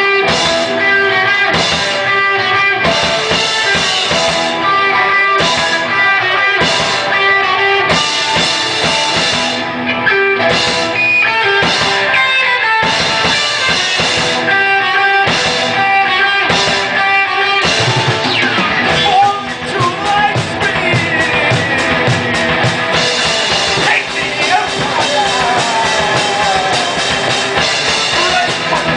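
Live metal band playing loud distorted electric guitars and a drum kit, with no bass guitar. It opens with choppy stop-start chord stabs, then about two-thirds of the way through turns into a denser, continuous riff with sliding high guitar notes.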